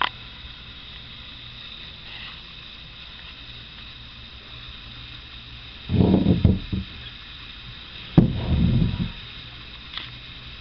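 Steady background hum, broken twice by a short bout of knocking and rubbing handling noise, about six and eight seconds in.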